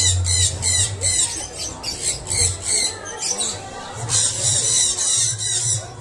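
Caged birds chirping and squawking in quick, shrill repeated calls, about three or four a second, thickening into a dense burst of chirping about four seconds in. A low hum comes and goes underneath.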